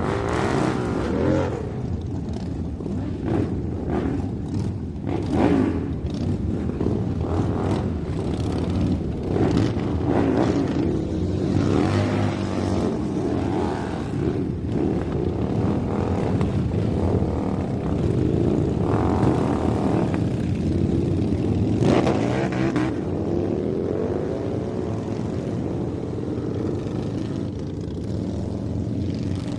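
Small electric motor of a homemade toy monster truck running, its pitch wavering up and down, with scattered clicks and knocks throughout.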